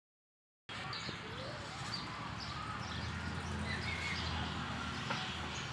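Birds chirping, starting just under a second in: short calls and brief whistles scattered over a steady low background rumble.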